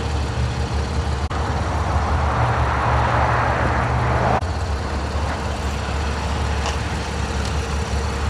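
A car driving, with a steady low engine hum and road noise. The noise swells for a couple of seconds in the middle, then changes abruptly, as at a cut between shots.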